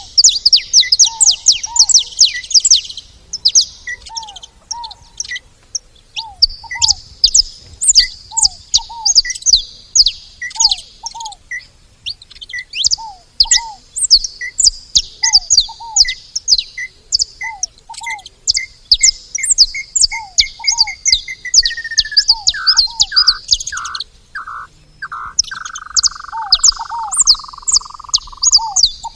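A group of saffron finches chirping and calling, many rapid high chirps overlapping. Beneath them lower paired notes repeat every second or two, and about two-thirds of the way through a run of notes speeds up, then slides down in pitch into a long falling trill.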